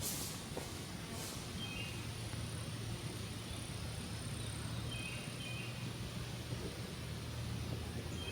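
Outdoor summer night-time-style ambience of insects trilling steadily at a high pitch, with a low steady hum underneath. A few short high chirps come through now and then, and a couple of sharp clicks sound in the first second or so.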